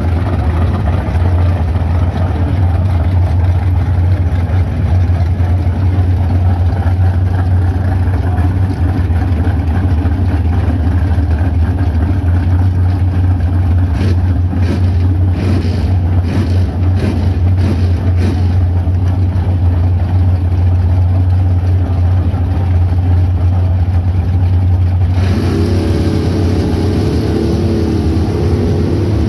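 Drag-racing V8 engine idling with a steady, loud low rumble; near the end a second, higher engine note joins in.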